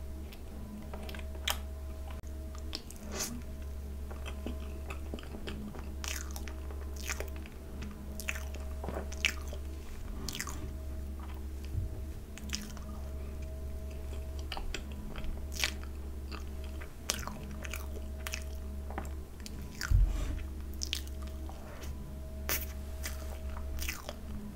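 Close-miked eating sounds from someone chewing soft cream cake: wet chewing with scattered lip smacks and clicks, irregularly spaced, over a steady low hum.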